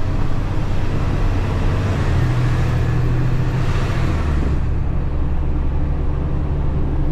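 Delivery truck's diesel engine running, heard from inside the cab while driving. About four seconds in the engine note drops and the road and wind hiss fades as the truck slows.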